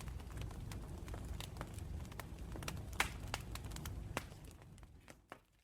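Wood campfire crackling and popping over a low rumble of flames, with one louder snap about three seconds in. The sound fades out near the end.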